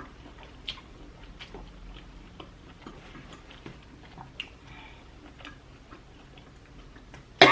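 Quiet eating sounds: scattered soft, wet mouth clicks and smacks of someone chewing food, a few every second or so.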